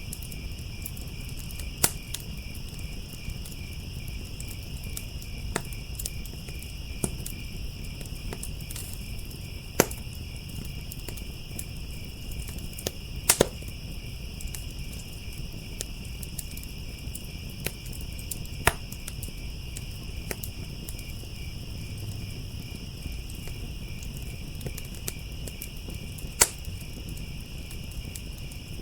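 Wood fire crackling, with sharp single pops every few seconds, the loudest near the end. Underneath is a steady low rumble of the burning fire and a continuous high chorus of crickets trilling.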